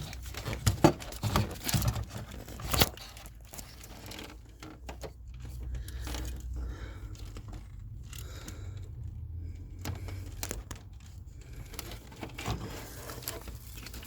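Hands working at the wiring behind a van's fuse box: sharp clicks and knocks in the first few seconds, then scattered rustles and light scrapes over a low steady hum.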